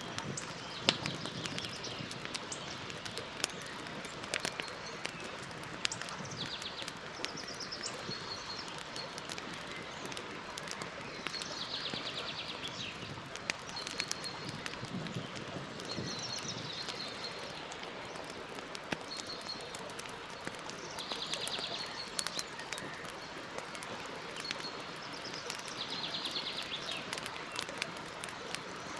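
Campfire crackling, with frequent sharp pops and snaps over a steady hiss. Birds call throughout, with short high trills and chirps repeating every few seconds.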